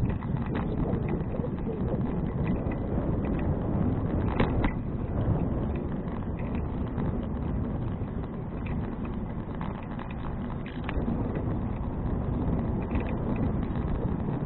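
Riding noise from a 2012 Fuji Touring bicycle: low wind rumble on the action camera's microphone, with scattered small rattles and knocks from the bike over the road surface.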